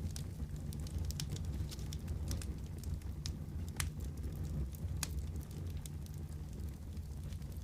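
Wood fire crackling in a fireplace: a steady low rumble of the flames with irregular sharp pops and snaps scattered through it.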